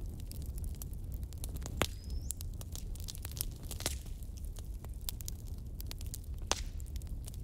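Wood fire crackling: irregular sharp pops and snaps of varying strength over a steady low rumble of flames, with a brief thin high whistle about two seconds in.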